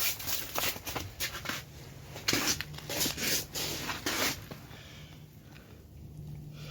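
Irregular scuffs and rustles of handling for about four seconds, then they stop, leaving only a faint low steady hum.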